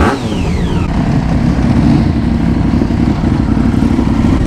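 Motorcycle engine running and pulling away, growing louder as it gathers speed, with two brief falling whines in the first second.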